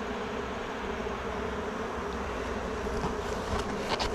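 Honeybees buzzing steadily around an open hive during an inspection, with a few faint clicks near the end.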